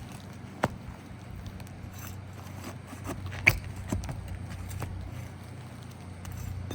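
Hand tools working on asphalt roof shingles to pull the nails, with scraping and a few sharp clicks and knocks; the loudest, about three and a half seconds in, has a brief metallic ring.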